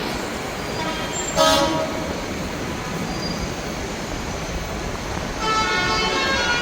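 Low rumble of slow-moving tractors with horns honking over it: one short, loud horn blast about one and a half seconds in, and a long held horn starting near the end.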